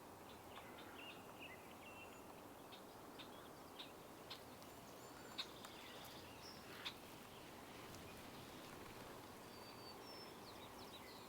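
Faint outdoor ambience with scattered short bird chirps and thin whistled calls, a few sharper notes between about four and seven seconds in.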